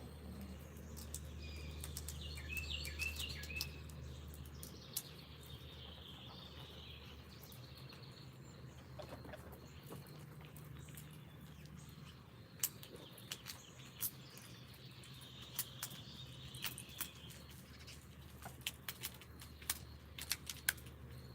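Small songbirds chirping in two short spells, with many sharp clicks and taps scattered through, thickest in the second half, over a low steady hum.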